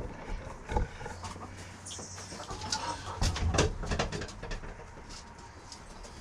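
Chickens clucking and cooing softly around a coop, with scattered knocks and rustling.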